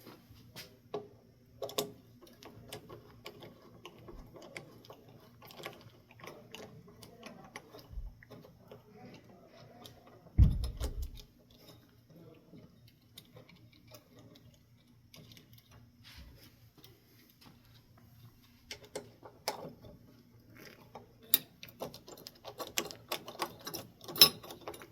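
Hand tools and a small metal mounting bracket being worked on: scattered clicks and ticks, with ratchet-like clicking as screws are turned. One low thump comes about ten seconds in, and the metal clicking and clinking grows busier near the end.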